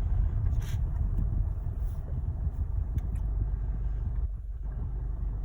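Motor vehicle running: a steady low rumble, with a few faint ticks.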